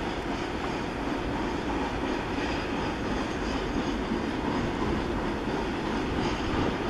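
Long diesel-hauled freight train of covered cement wagons rolling along the line, a steady noise of wheels on rail.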